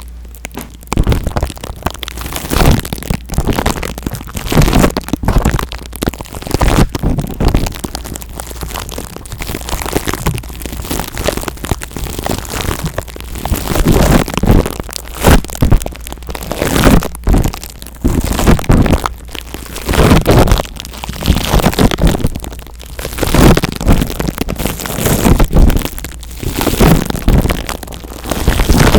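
Close-miked ASMR scratching and rubbing on the microphone, as in a mock scalp massage: dense crackling and rustling that comes in uneven surges every second or so.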